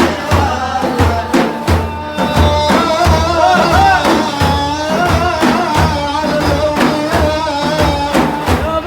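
Sufi devotional praise song (manqaba): a singer's wavering, ornamented melody over a steady, repeating drum beat.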